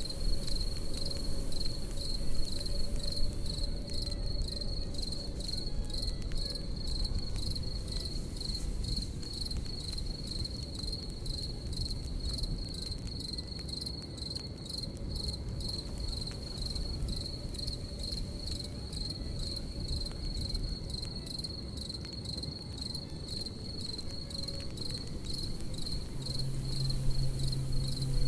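Crickets chirping in a steady, high, pulsing trill over a crackling campfire, whose scattered sharp snaps sit over a low rumble. A low steady hum comes in near the end.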